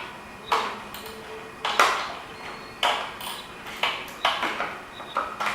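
Metal sockets and a socket wrench clinking, about six sharp ringing clinks roughly a second apart, as small sockets are tried on a lawnmower carburetor bowl bolt.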